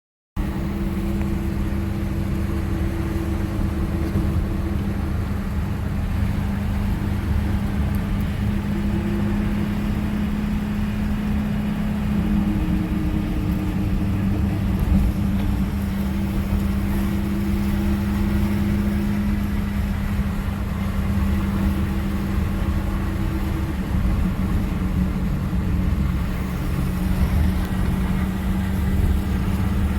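A 1960 Chevrolet on the move, heard from inside the cabin: steady engine and road noise with a low drone whose pitch shifts slightly now and then.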